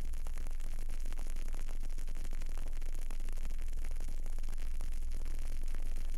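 Candle burning, with faint irregular crackles over a steady hiss and a strong low hum.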